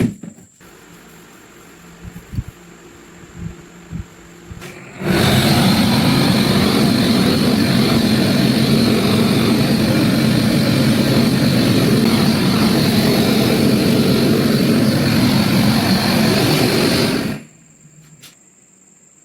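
A power tool running steadily for about twelve seconds, starting and cutting off abruptly, after a few light knocks.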